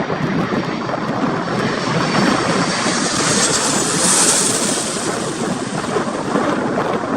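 Airliner's engines passing, a rising and fading whine that is loudest about four seconds in, over the heavy rumble of storm wind on the microphone.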